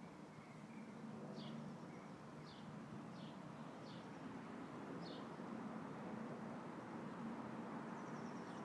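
Light wind rustling the leaves of a tree, a steady faint hiss, while a small bird gives five short high chirps over the first five seconds. A faint low drone runs underneath.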